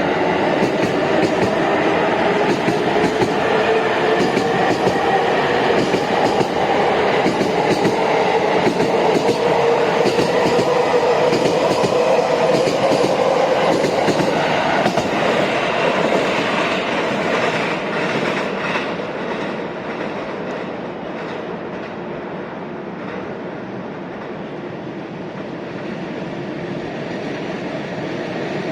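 An electric train running on the tracks, with wheel clicks over the rails and a faint motor whine that slowly climbs in pitch. It grows quieter about two-thirds of the way through.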